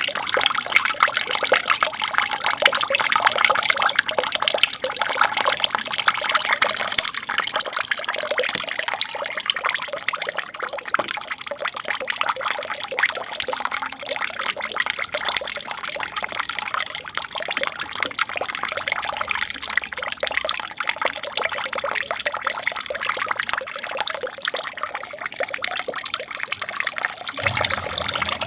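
Water from a small aquarium waterfall trickling and splashing steadily into the tank. A low hum joins in near the end.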